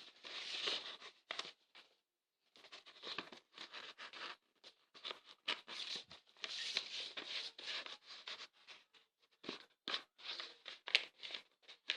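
A sheet of paper being folded and creased by hand: irregular rustling and scraping, with a short pause about two seconds in.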